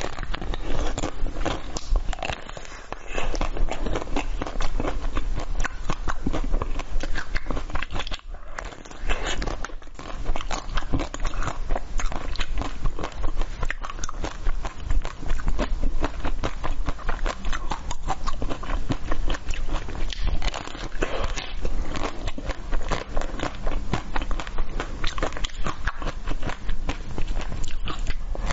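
Close-miked biting and chewing of a round pink-shelled food with a soft yellow filling: a dense, steady run of crackly clicks and crunches.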